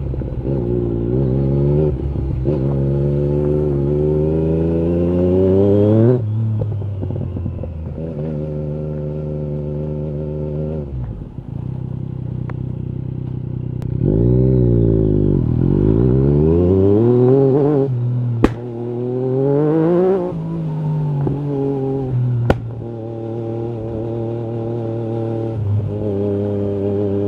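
Yamaha MT-09 SP three-cylinder engine through an Akrapovic carbon Racing-Line exhaust, revving up and down under the rider's throttle. It climbs in pitch over the first few seconds, drops sharply about six seconds in, and sweeps up and down again around the middle. Two sharp cracks come in the second half, and it settles to a steady note near the end.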